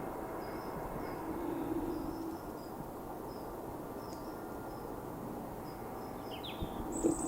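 Small birds chirping faintly and repeatedly over a steady outdoor background with a low hum that comes and goes; a louder, downward-gliding call sounds near the end.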